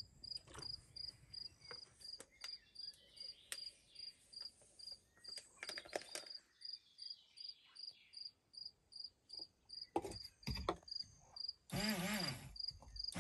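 A cricket chirping steadily, about three high chirps a second, with a few faint clicks. Near the end a louder sound with a wavering pitch comes in.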